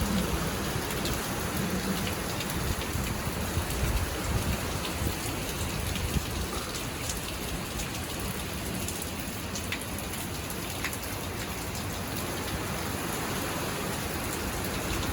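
Hurricane rain falling steadily, with scattered sharp drop ticks and a low rumble in the first few seconds that eases off.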